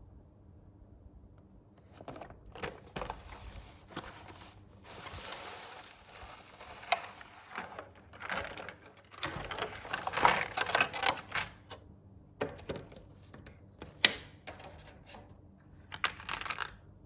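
Packaging being handled and opened: irregular crinkling and rustling with sharp clicks and taps, starting about two seconds in.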